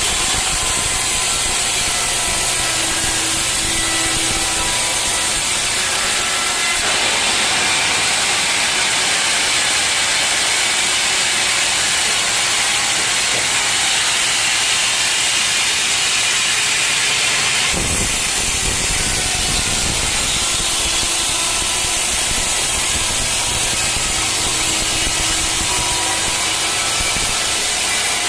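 Sawmill saw cutting through an old teak log: a loud, steady rushing noise with faint whining tones. The sound changes abruptly twice.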